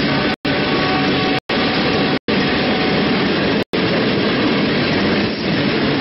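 Ballast hopper cars of a freight work train rolling past close by: loud, steady wheel-on-rail noise. The sound drops out for an instant four times.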